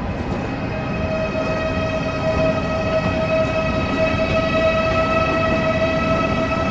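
Train in the station below: a low rumble, with a steady high whine and its overtones coming in about a second in and holding on.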